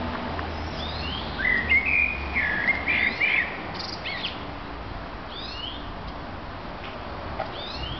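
Small songbirds calling: short falling chirps repeated every couple of seconds, and a brief warbling phrase between about one and a half and three and a half seconds in. A low rumble underneath fades out about two and a half seconds in.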